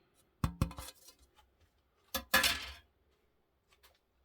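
Small hard parts of a clock being handled and set down on a workbench. There are three quick clinks about half a second in, then another clink and a short rattle a little after two seconds.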